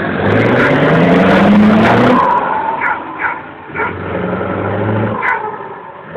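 Scania 164 580 truck's 16-litre V8 diesel pulling away hard, its engine note rising for about two seconds, breaking off at a gear change, then pulling again at a steadier pitch.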